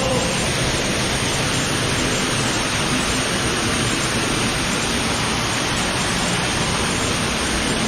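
Steady rushing of fast-flowing water in a cave stream passage, a loud, even noise with no breaks.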